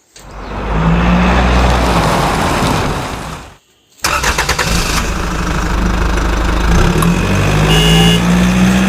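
Motor vehicle engine running steadily, fading out after about three and a half seconds. After a short break, a second engine sound starts abruptly and runs on, with a brief high tone near the end.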